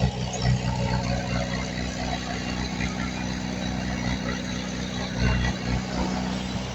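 Heavy diesel engine of earthmoving machinery running steadily at low revs, a low, even drone with a few brief swells in loudness.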